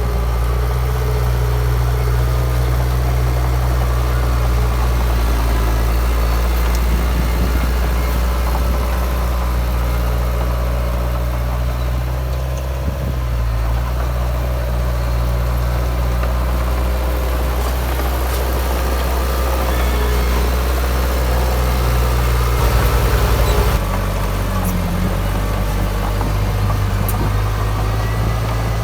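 Heavy diesel engine of earthmoving machinery running steadily, its note shifting lower about three-quarters of the way through.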